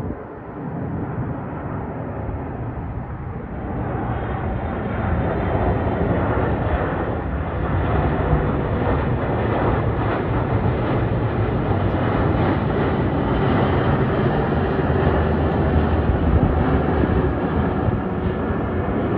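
Jet engine rumble of a Boeing 777-300ER airliner's twin GE90 engines on arrival, growing louder over the first few seconds and then holding steady.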